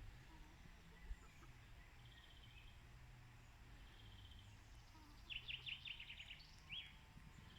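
Faint bird chirping over a steady low hum: a short high trill repeats about every two seconds, and a quick run of chirps comes about two-thirds of the way through.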